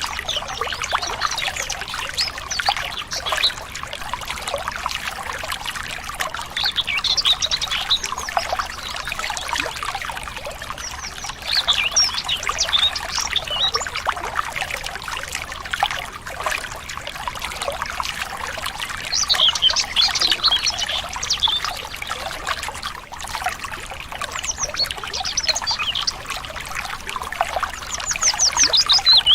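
Stream water trickling and splashing steadily, with birds chirping in short bursts of quick high notes every few seconds.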